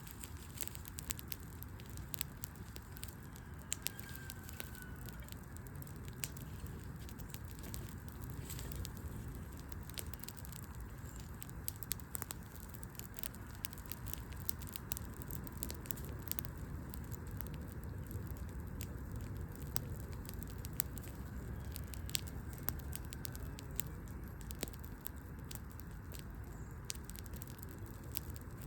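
Wood fire crackling, with frequent sharp pops and snaps of burning wood over a steady low rumble of the flames.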